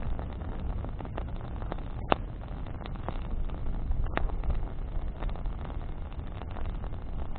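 Campfire of burning branches crackling, with scattered small pops and two sharper snaps about two and four seconds in, over a steady low rumble.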